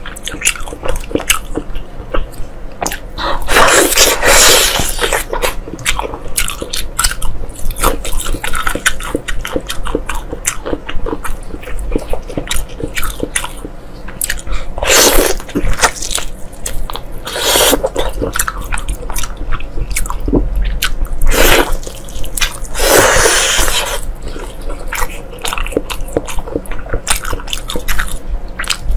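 Close-miked eating sounds: a person biting and chewing deep-fried pig intestine, with a constant run of quick wet mouth clicks and several louder, longer bites, about four, fifteen, eighteen, twenty-one and twenty-three seconds in.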